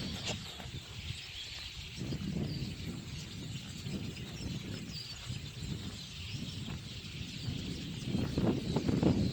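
A very large flock of birds calling together: a dense, continuous chatter of many overlapping calls, with an uneven low rumble underneath that grows louder near the end.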